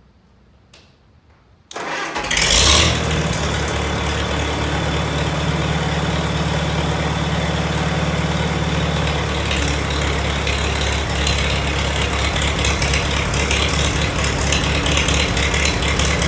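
1956 Farmall 300 tractor engine starting about two seconds in, louder for a moment as it catches, then running steadily. It sounds not too bad for an engine that had been underwater for a month in a flood.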